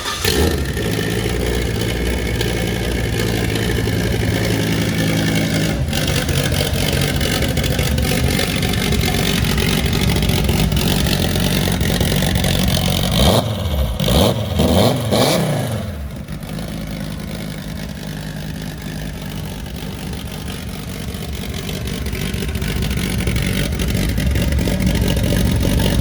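Turbocharged five-cylinder engine of a Volvo V70 drag car running, with a burst of quick revs about halfway through. It then settles lower and builds again near the end.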